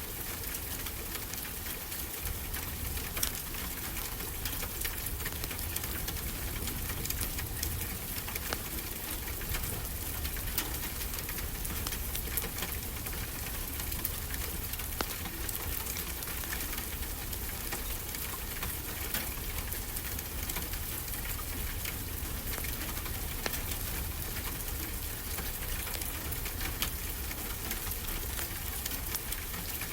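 Fireplace crackling with many small irregular pops over a steady hiss, mixed with the continuous low rumble of ocean surf.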